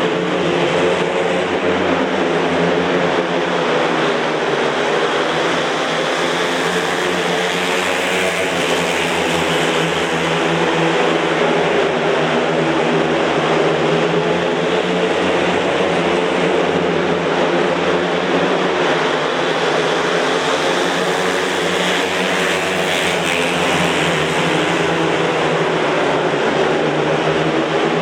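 Several speedway motorcycles racing, their 500 cc single-cylinder methanol-fuelled engines running together at a steady, unbroken level.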